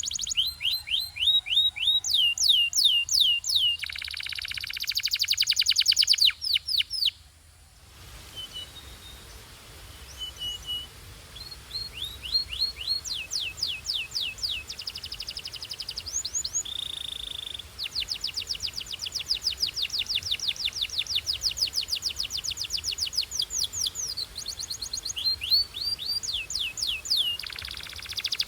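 Canary singing: fast runs of repeated falling whistled notes alternating with dense rolling trills, high-pitched. The song breaks off briefly about seven seconds in and then resumes.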